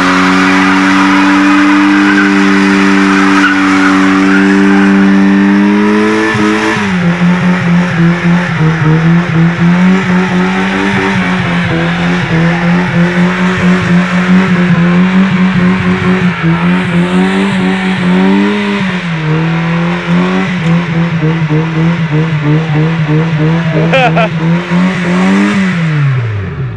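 Honda Civic's four-cylinder engine held at high revs through a front-wheel burnout with the tyres spinning. The note is steady for about six seconds, then the engine bounces off its rev limiter in a rapid stutter, and the revs drop away near the end.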